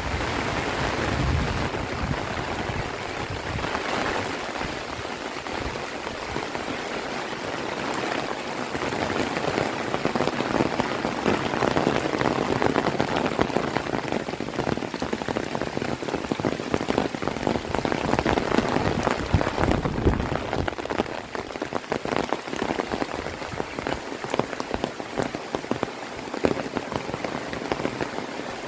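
Heavy rain falling and pattering densely on surfaces, a steady downpour with countless individual drops, a little heavier in the middle.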